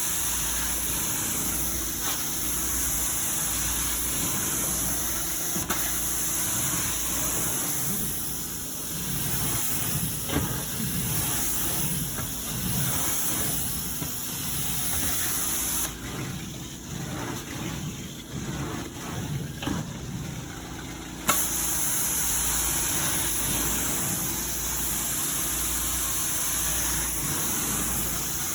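Carpet-extraction vacuum running steadily, a strong high hiss over a low engine hum, with rougher pulsing sounds as the carpet is worked. Past the middle the high hiss drops away for about five seconds, then snaps back with a sharp click.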